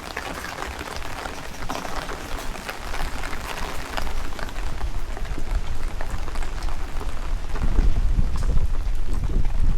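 Heavy rain falling, with raindrops striking close by in many sharp ticks. A low rumble swells from about halfway through and is loudest near the end.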